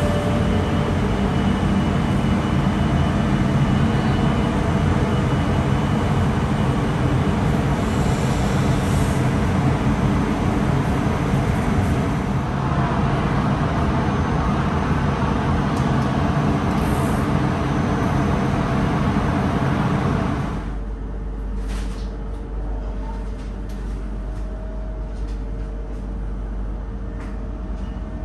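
Electric trains running at a station platform: a Stadler GTW rack railcar moving off, then, from about twelve seconds in, another electric train at an underground platform. About twenty seconds in, the loud running noise cuts off suddenly to a quieter steady hum inside a standing train car.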